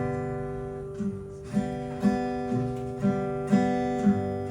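Acoustic guitar strummed in a slow, even rhythm, about two strums a second: the instrumental intro to a song, before the singing comes in.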